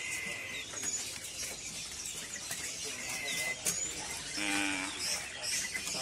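Small caged songbirds calling: a short clear whistled note at the start and another about three seconds in, with faint high chirps between, over the steady hubbub of a bird-market kiosk.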